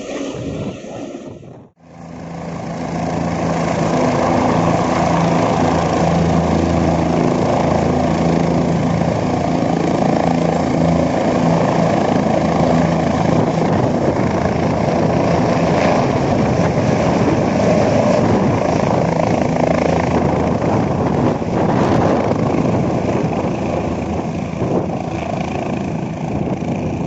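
Helicopter running: steady rotor and engine noise with a low hum. After a brief gap about two seconds in, it swells up and then holds steady.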